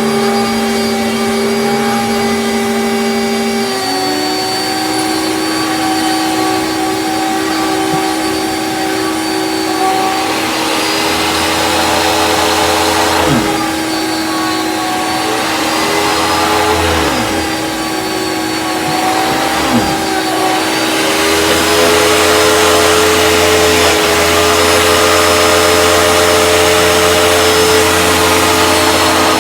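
Hoover canister vacuum cleaner running with its power head on. The motor's pitch steps up about four seconds in, and a rushing noise comes and goes several times, heaviest near the end. The owner hears that the power head needs a new belt: under suction the head clamps down on the carpet and the beater bar stops.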